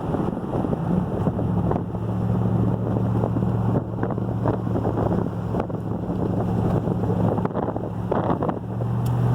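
A vehicle driving, with its engine giving a steady low drone under road noise and wind buffeting the microphone, plus a few small knocks.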